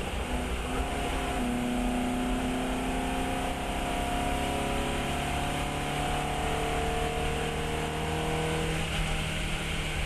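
Fiat 132 race car's engine running hard on track, its note settling about a second and a half in and then sagging slowly in pitch, with steady road and wind noise underneath.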